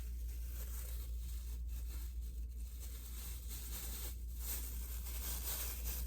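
Crisp rustling and tearing from handling a fried chicken meal and its wrapping, with brief pauses about one, two and four seconds in, over a steady low hum.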